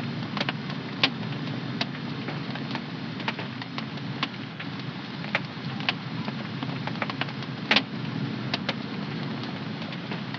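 Wood fire burning in a home fireplace: a steady low rush of flame with irregular sharp crackles and pops, the loudest pop a little under eight seconds in.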